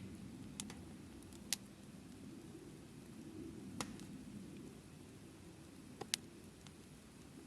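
Wood fire burning in a small folding fire stand, with a low steady rumble and a few sharp crackles and pops at irregular intervals, two of them close together near the end.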